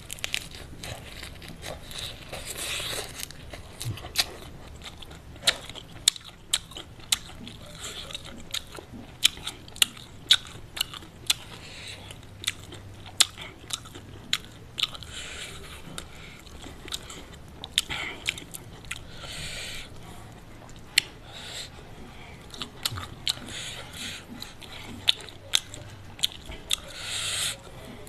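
Close-miked eating: chewing raw lettuce and crispy fried chicken with many sharp crunches and wet mouth clicks, and a crisp bite into a raw round green eggplant near the end.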